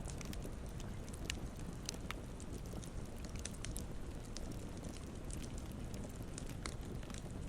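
Campfire burning with a steady low rumble of flame and irregular sharp crackles and pops of burning wood, a few louder snaps scattered through.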